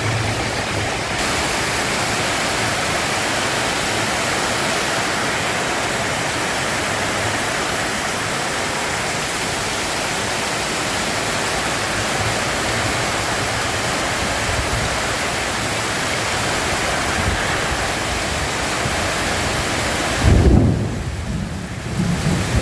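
Heavy rain pouring steadily as an even hiss, with a sudden deep thunder boom near the end.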